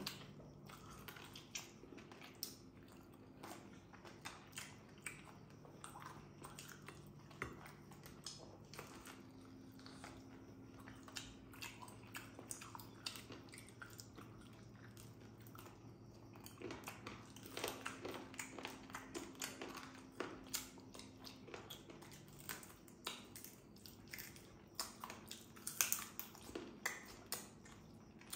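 Two people chewing and biting into barbecued chicken, a run of soft irregular mouth clicks and smacks that grows busier and louder in the second half.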